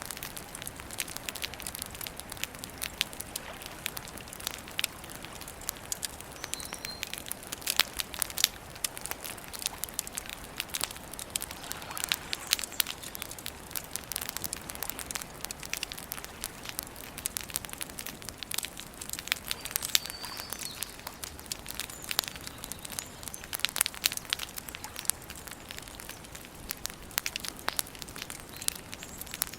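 Wood campfire burning, crackling and popping irregularly over a steady hiss of flames. A few faint, short bird chirps now and then.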